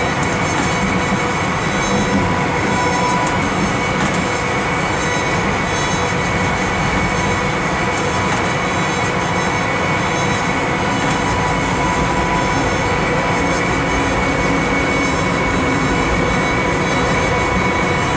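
Amtrak California Zephyr passenger train rolling slowly on jointless rail: a steady rumble of wheels and running gear, with faint thin steady tones running over it.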